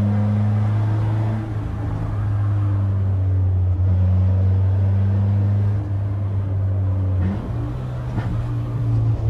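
Peugeot 206's straight-piped four-cylinder engine with an open-cone intake, running at fairly steady revs on the road with a low drone. Its pitch steps up about seven seconds in, with a short sharp crack soon after.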